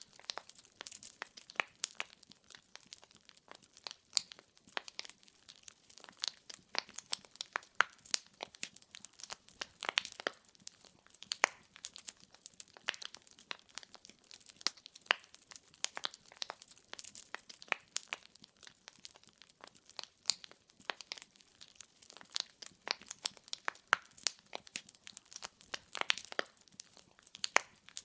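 Firewood burning in a fireplace, crackling and popping in quick irregular snaps over a soft hiss.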